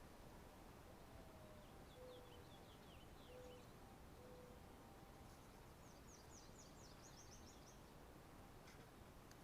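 Near silence with a steady faint hiss, over which a small bird gives two faint rapid runs of short chirps, the second run higher, along with three short low whistled notes early on.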